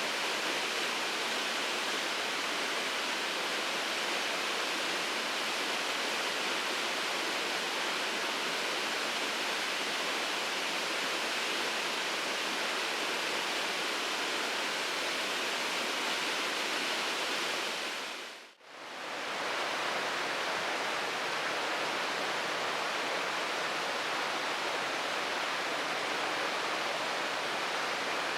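Waterfall pouring steadily, an even rushing noise. About two-thirds of the way through, it fades out for a moment and comes straight back.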